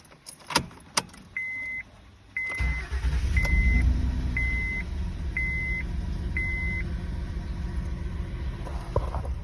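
A few clicks, then a car's warning chime beeping six times, about once a second. A Honda Accord V6 engine starts about two and a half seconds in, revs up briefly and settles into a steady idle, an engine the owner says is misfiring on cylinders 4, 5 and 6.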